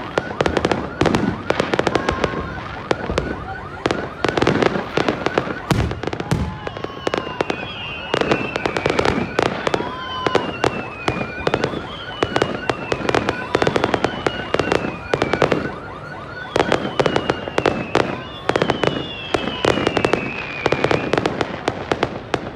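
Aerial fireworks going off without a break: rapid bangs and crackling bursts. From about a third of the way in, a high tone falling in pitch over a second or so repeats every couple of seconds.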